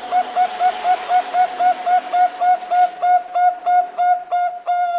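Zebra dove of the Thai perkutut bangkok strain singing a fast run of short, ringing coos, about four a second, all at one pitch.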